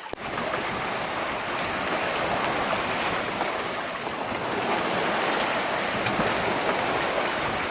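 Sea water rushing and splashing past a sailboat's hull as it sails through waves, a steady rushing that swells and eases a little.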